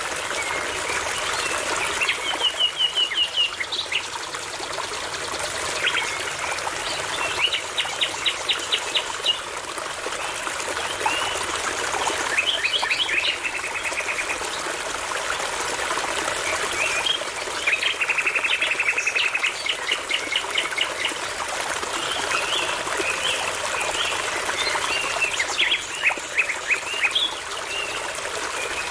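Nightingale singing in separate phrases of rapidly repeated notes and fast trills, about six phrases with short pauses between them, over the steady rush of a babbling brook.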